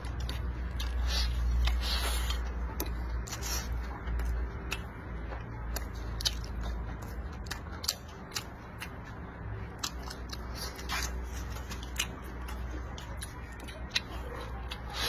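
Close-miked eating: a man chewing and smacking his lips over a mouthful of tofu and braised pork, with irregular sharp clicks, over a steady low hum.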